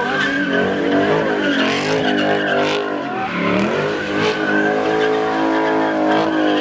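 Car doing a burnout: the engine is held at high revs, dips about three seconds in and climbs back, while the spinning rear tires keep up a steady squeal.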